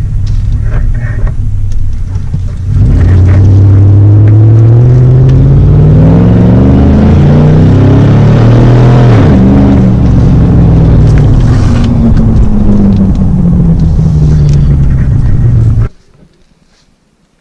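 2004 Chevy Silverado 1500's engine running with no exhaust system, very loud: revved up slowly over several seconds, then let back down. It cuts off suddenly near the end.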